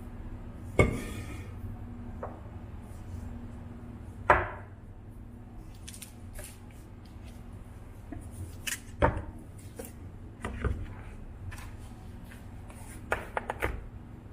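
Scattered sharp knocks and clicks of objects being handled and set down over a steady low hum. The loudest come about a second in and just after four seconds, with a quick run of clicks near the end.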